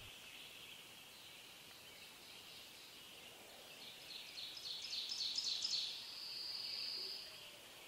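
Faint outdoor ambience: a steady high hiss like an insect chorus, with a bird singing a quick run of repeated high notes about four seconds in, followed by a steady high buzz lasting a second or so.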